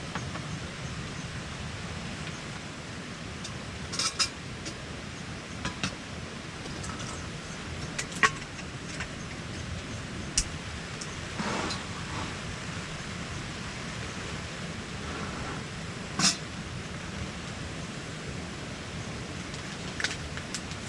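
Steady wind noise during a passing typhoon, with a handful of sharp clicks and knocks scattered through it; the strongest come about 8 and 16 seconds in.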